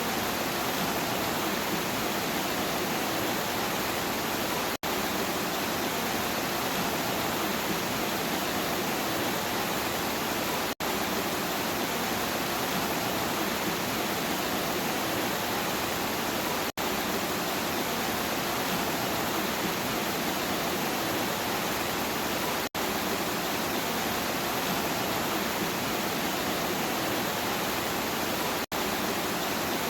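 Steady rain, an even hiss of falling water that cuts out for an instant about every six seconds.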